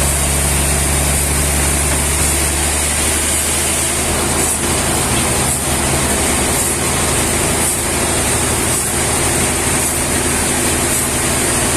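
An engine running steadily under a constant hiss, its low note changing about four seconds in.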